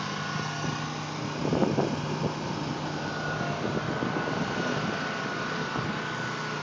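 An engine running steadily, with a brief louder noise about one and a half seconds in.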